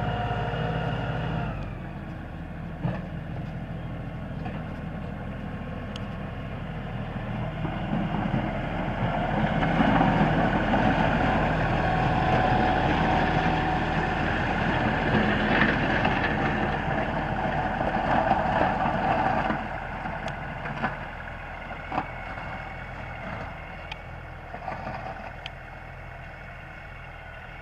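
LS4135 compact tractor's diesel engine running. Its speed and level drop about two seconds in. It grows louder and rougher for a stretch in the middle, then settles lower again near the end.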